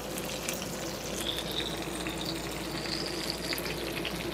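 Chicken tenders frying in oil in a 12-inch Lodge cast iron skillet on a butane camp stove: a steady sizzle with many small pops and crackles.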